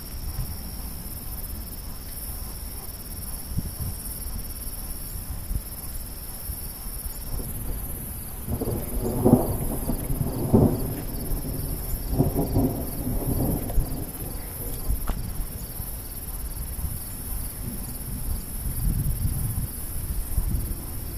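Thunder rumbling in a thunderstorm: a steady low rumble, with several louder rolls clustered around the middle.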